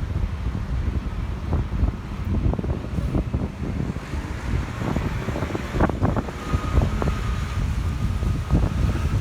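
Strong, gusty storm wind buffeting the microphone in uneven low rumbles.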